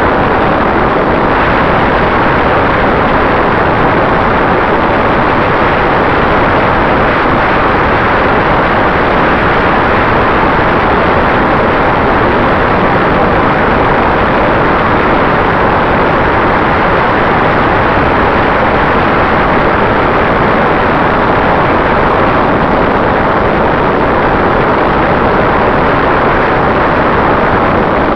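Steady loud rush of wind and spinning propellers picked up by an FPV quadcopter's onboard camera in flight, with a faint steady hum under the noise.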